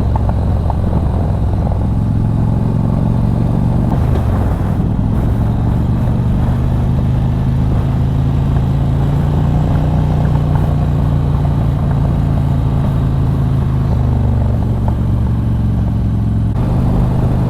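A 2006 Harley-Davidson Street Glide's 88-cubic-inch fuel-injected Twin Cam V-twin running steadily under way through a loud exhaust, heard from the rider's helmet mic. The engine note shifts about four seconds in and again near the end.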